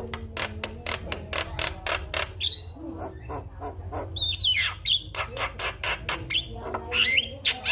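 Javan mynas calling: a rapid run of harsh clicks and chatter with sharp whistled notes that slide in pitch, about two and a half seconds in, around four to five seconds in and near the end. A steady low hum runs underneath.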